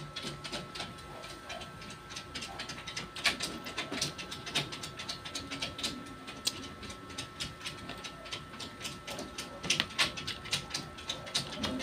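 Close-miked eating sounds: a person chewing a mouthful of rice and egg, with a steady run of small mouth clicks and smacks.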